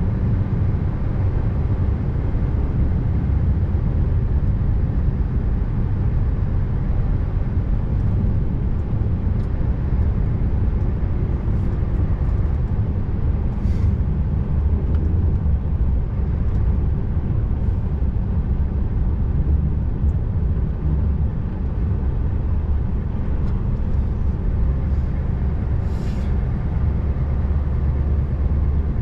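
Scania R590 V8 truck engine running steadily while driving, a constant low drone with road noise over it. A brief tick sounds about halfway through and another near the end.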